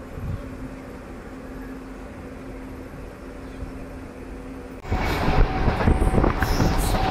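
Passenger train heard from its open door: a low steady hum as it pulls slowly out of a station, then, about five seconds in, much louder running noise of the train at speed with the wheels knocking irregularly over the rails.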